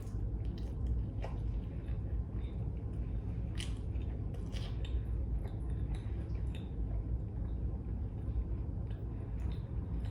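Close-up mukbang eating sounds: wet chewing and mouth smacks with scattered short clicks as food is eaten, over a steady low hum.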